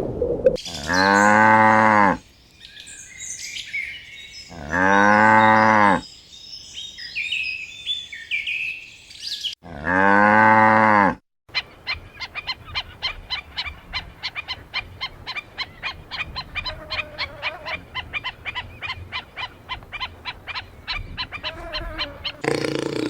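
A cow mooing three times, each a long, low moo of about a second and a half, with small birds chirping between the moos. After the third moo comes a fast, steady run of clicking chirps lasting about ten seconds.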